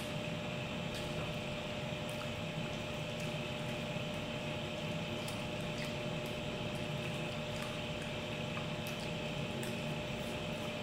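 A person chewing food with the mouth closed, giving faint soft clicks every second or so over a steady background hum that carries a faint constant tone.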